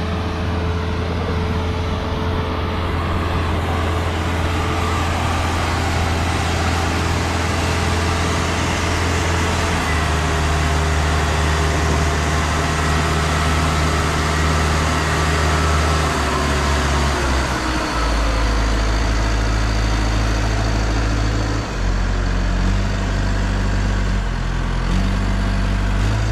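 Heavy diesel engine of a farm machine running hard and steadily. Its note shifts up and down in steps several times, with a clear change about ten seconds in and a drop in pitch past the halfway point.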